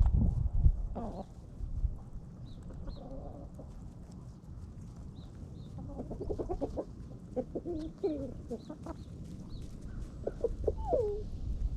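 Backyard hens clucking while they feed, with short calls bunched in the second half and small high chirps. A low rumbling noise is loudest in the first second.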